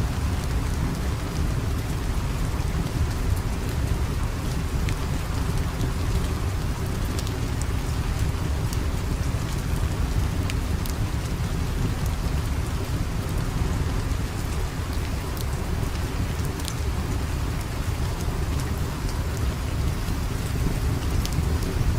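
Steady rain ambience with a deep low rumble underneath and scattered sharp crackles and ticks, the crackling of a fire mixed with the rain.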